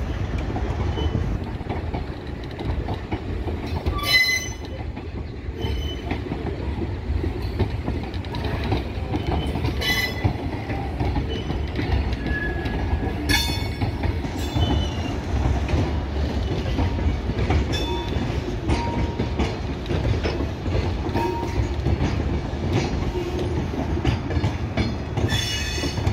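Wagons and vans of an Indian Railways accident relief train rolling steadily past on the rails, with a continuous low running noise and clatter. Short high-pitched wheel squeals cut in several times.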